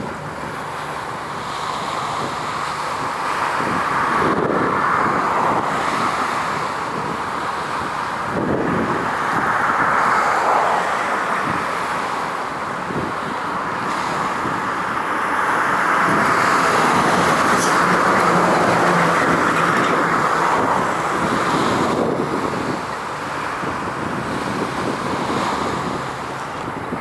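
Road traffic noise: vehicles passing one after another, the sound swelling and fading every few seconds.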